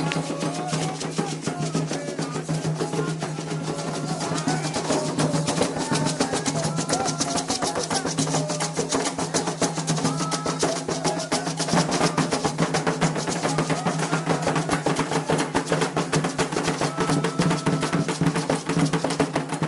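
Candomblé ritual drumming: atabaque hand drums played in a fast, steady rhythm, with voices singing over it.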